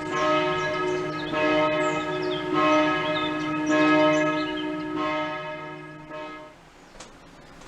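Church bells ringing, with strokes about once a second and the tones overlapping; the ringing dies away about two-thirds of the way through, leaving quiet outdoor background and a faint click near the end.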